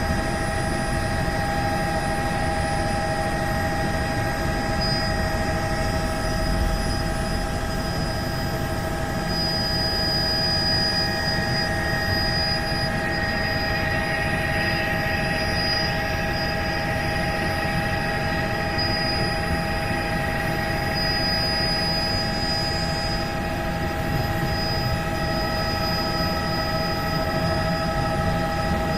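Helicopter engine and rotor noise: a steady drone with a constant whine made of several high tones, unchanging throughout.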